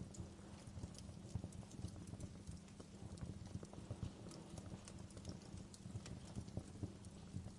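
Wood fire burning in a fireplace: a steady low rumble with irregular, sharp crackles and pops of the burning wood.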